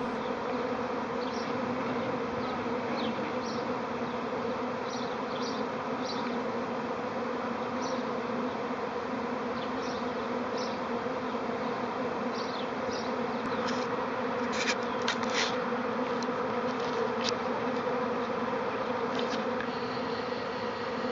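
Swarming honeybees in flight, a steady buzzing hum, dotted with brief high chirps and a short cluster of sharper high sounds about 15 seconds in.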